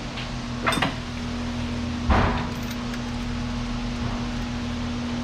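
Metal parts and tools being handled on the engine, with a light click just under a second in and a louder knock about two seconds in, over a steady low hum.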